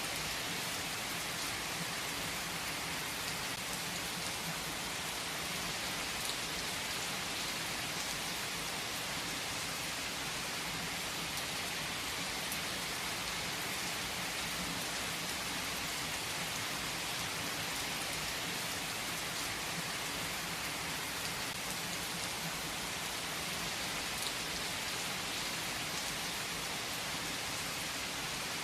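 Steady, even rain hiss with scattered faint drop ticks; no thunder rumble stands out.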